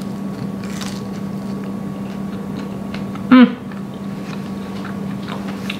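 A person biting into and chewing a crispy pan-fried sweet potato jeon slice, with faint crunching. A brief voiced sound from the eater comes about three seconds in, over a steady low hum.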